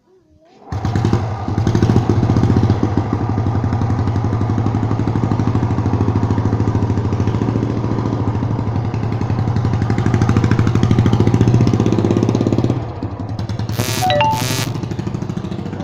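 Motorcycle engine starting up about a second in and running loudly and steadily with a fast, even beat of firing pulses. It drops to a lower level near the end, when two short sharp noisy bursts are heard.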